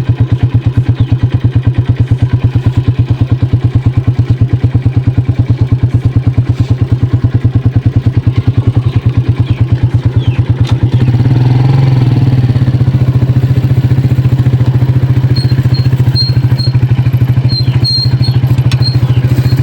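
Small motorcycle engine running while riding, with a loud, even, low pulsing that smooths into a steadier drone about eleven seconds in as the engine speeds up.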